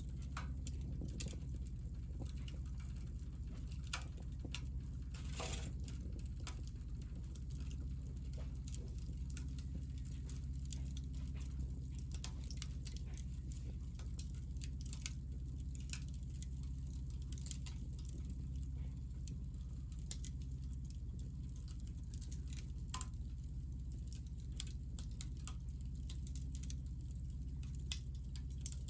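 Small fire of hinoki (Japanese cypress) offcuts crackling, with scattered sharp pops and ticks over a steady low rumble. A louder pop comes about 23 seconds in.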